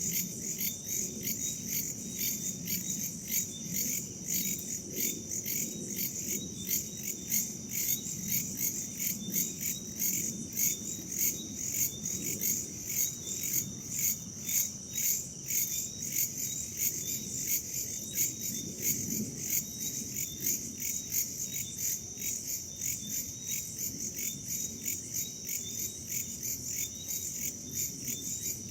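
A chorus of crickets and other insects chirping in a steady, fast pulsing trill, over a low rush of wind.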